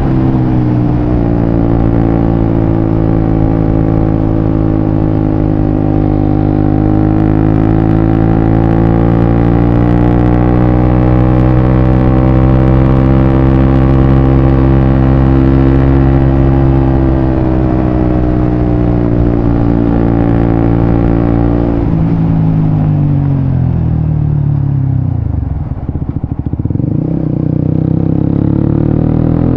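Suzuki GSX-S150's single-cylinder engine through a Quinze Big Volume aftermarket exhaust, running at steady revs with slow small rises and falls in pitch. About two-thirds of the way through the revs drop, sink low for a moment and then climb again.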